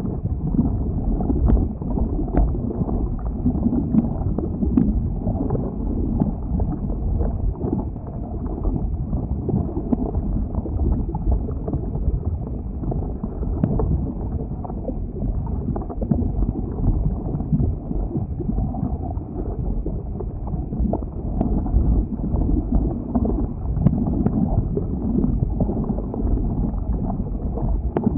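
Lava flow: a steady low rumble with scattered sharp cracks and clicks, a dozen or so over the stretch.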